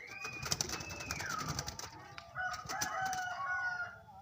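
Caged barbary doves (burung puter) and birds in the cage calling. A high call holds and then slides down in pitch in the first second or so, and several overlapping calls come in the second half, with scattered sharp clicks.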